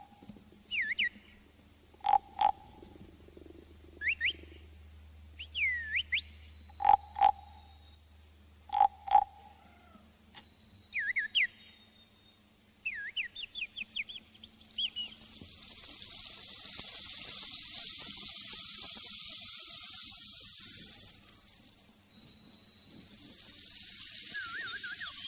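Animal calls: paired short hooting notes and quick rising whistles, repeated every couple of seconds. From about halfway through, a steady high drone swells, fades out around 21 s and then rises again near the end.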